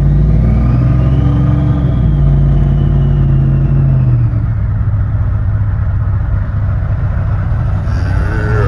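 Dodge Ram 1500 Hemi V8 pickup under acceleration, its engine note strong and low, with a faint turbo whistle rising and falling in the first few seconds. About four seconds in the engine note drops as the throttle eases, then runs on steadily.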